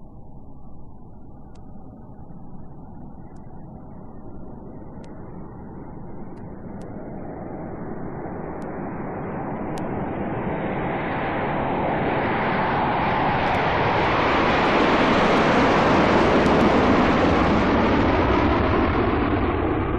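Jet aircraft taking off: its engine noise swells steadily louder and brighter as it approaches, peaks about three-quarters of the way through, then begins to fade as it passes.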